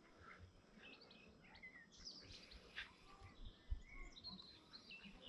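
Near silence with faint bird chirps now and then, and one soft knock a little past halfway.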